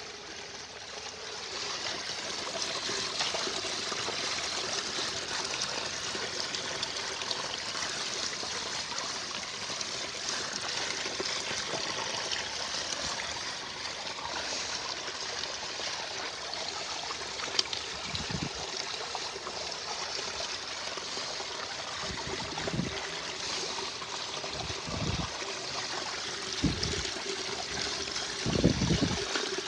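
Water from a pondless waterfall running and splashing steadily over rocks, with a few dull low thumps in the second half.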